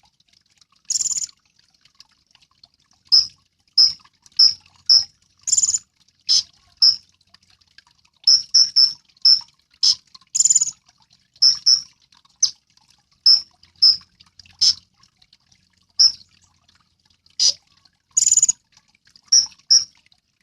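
A kolibri ninja sunbird giving short, high chirps, singly and in quick runs of two to four, with a few longer, harsher buzzy notes among them.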